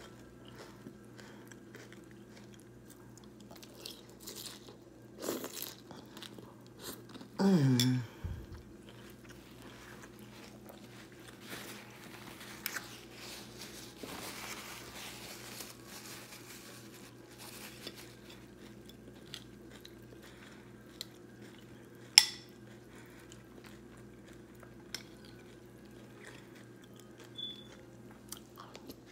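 Close-up crunching and chewing of Frosted Flakes Banana Creme cereal, a run of small crisp crunches and mouth sounds. A short, loud vocal sound falling in pitch comes about seven and a half seconds in, and a sharp click about twenty-two seconds in.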